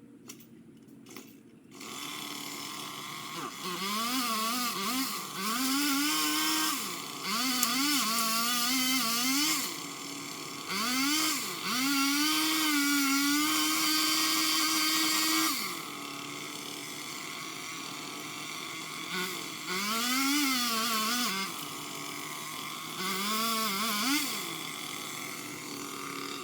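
Craftsman power limb cutter (pole saw) running and cutting through limbs in five bouts. In each bout the pitch drops under load and climbs back, with a steadier, quieter running sound between the cuts.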